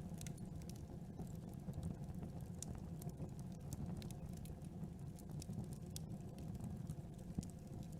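Campfire burning: a steady low rumble of flames with frequent small crackles and sharp pops from the wood.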